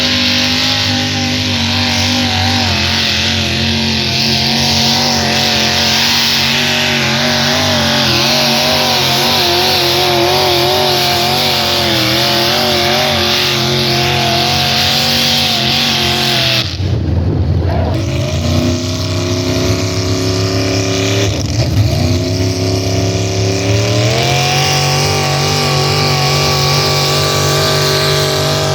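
Pulling vehicle's engine running hard under load, its pitch wavering. The sound breaks off briefly about two-thirds of the way in, then the engine's pitch climbs in two steps.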